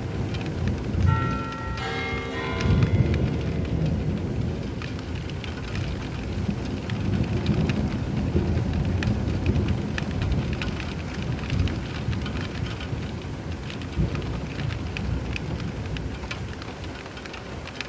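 Steady rain falling with patter and drips, under a low, rolling rumble of thunder. A bell chimes during the first few seconds and dies away.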